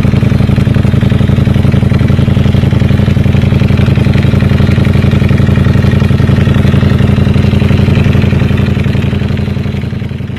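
Ducati Panigale V4 motorcycle with a Termignoni exhaust idling steadily, a loud, even run of exhaust pulses that fades out near the end.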